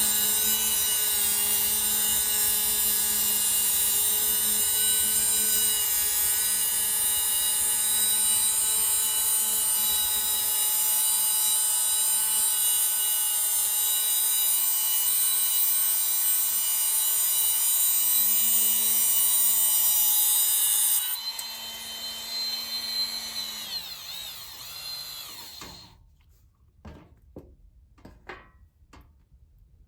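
Small electric power tool running at a steady speed, switched off about two-thirds of the way in and winding down over a few seconds. A few light clicks come near the end.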